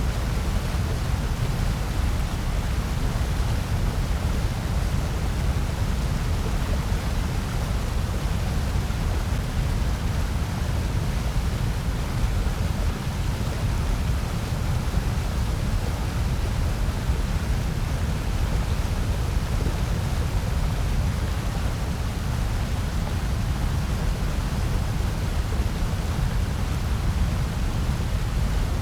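Steady, electronically generated noise sold as white noise, unchanging throughout, with most of its weight in a deep low rumble below a fainter, even hiss.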